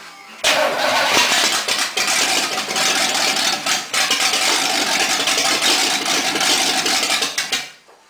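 Chevrolet 350 small-block V8 in a stock-car race truck firing up abruptly and running loudly for about seven seconds, then shut off sharply near the end. This is a test start after the engine was given fresh gaskets.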